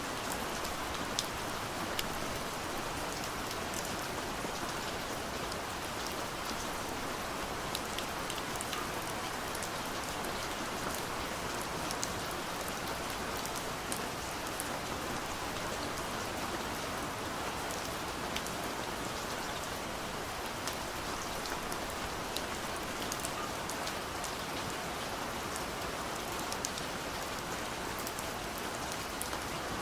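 Steady, gentle rain falling on a window, a continuous patter with scattered individual drop ticks.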